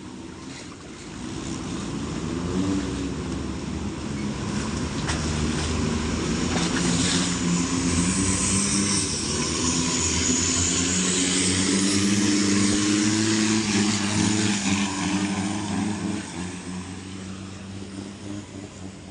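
Engine of a racing boat on the water passing by, running at steady high revs: it grows louder to a peak about twelve seconds in and then fades, with a hiss of spray over the engine note.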